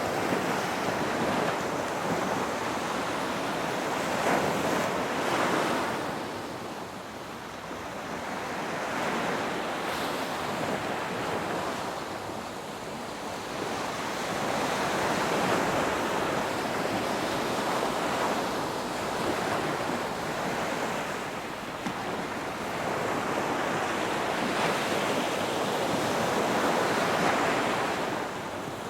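Ocean surf: waves breaking and washing in, a rushing sound that swells and fades every few seconds, with some wind on the microphone.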